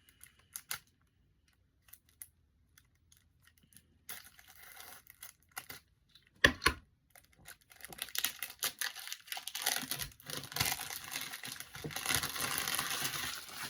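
Plastic wrapping being peeled and torn off a CD, crinkling. A few light clicks first, then tearing and crinkling that starts about a third of the way in, with one sharp snap near the middle, and grows busier and louder toward the end.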